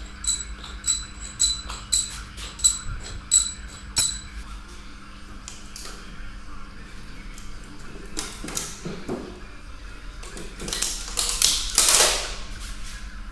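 Metal-on-metal workshop sounds as the cylinder head is worked off a Ford Transit 2.2 TDCi diesel engine. First comes a run of sharp, ringing metallic clinks, about two a second for four seconds. Later come scraping and clattering of metal parts, loudest near the end.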